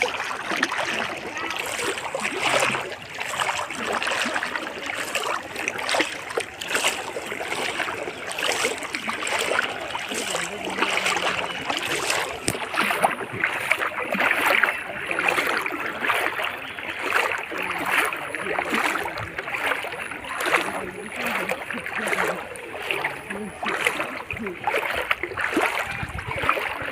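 Floodwater running and splashing, with many irregular splashes over a steady rush of water.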